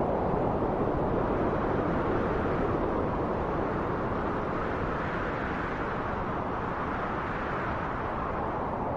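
Wind blowing steadily: a continuous rushing hiss that eases off slightly over the few seconds.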